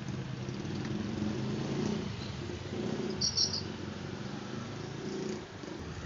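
An engine idling steadily, with a brief high chirp about three seconds in.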